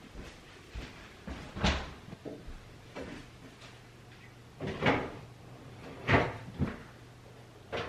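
A handful of sharp knocks and bangs, like doors or cupboards closing, the loudest about five and six seconds in, over a faint steady hum.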